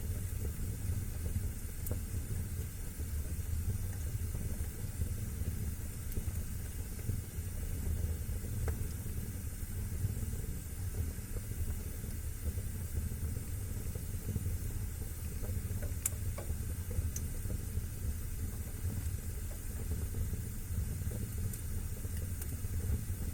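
Wood fire burning in a fireplace: a steady low rumble and hiss with a few sparse crackles, the sharpest about sixteen seconds in.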